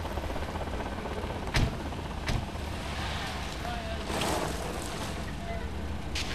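A steady low rumble, with two short knocks about a second and a half and two and a half seconds in.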